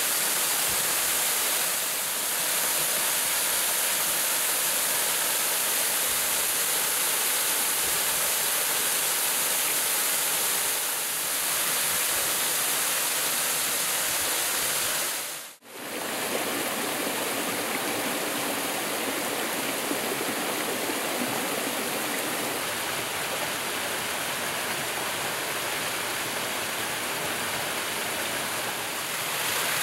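Waterfall: a steady rush of falling water. About halfway through it drops out for a moment and comes back slightly fuller.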